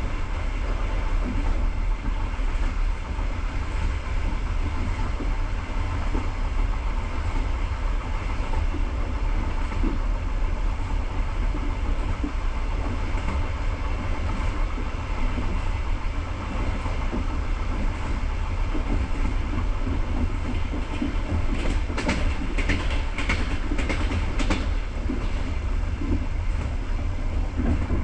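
Passenger coach running along the track: a steady low rumble of wheels on rails, with a short run of sharper clatters about three-quarters of the way through.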